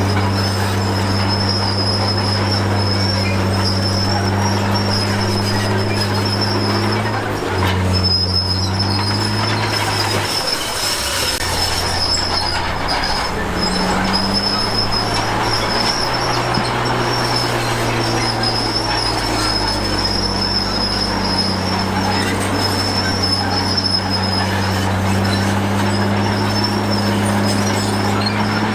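Komatsu D53P crawler bulldozer's diesel engine working under load, its note shifting a few times as the load changes, with a steady high squeal from the steel tracks.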